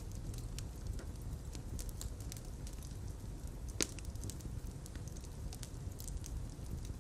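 Fire crackling in a fireplace: scattered small pops and snaps over a low steady rumble, with one louder pop about halfway through.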